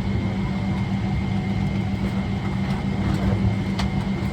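Steady cabin hum inside a Boeing 777-300ER, with a constant low drone, a thin high whine above it and a few light clicks.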